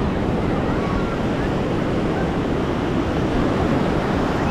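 Steady rush of ocean surf mixed with wind buffeting the microphone, with faint voices in the background.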